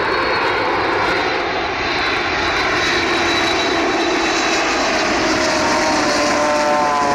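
Boeing 787 passing overhead on approach to land with its ram air turbine deployed: a loud, steady rush of engine and air noise. Wavering tones come in near the end.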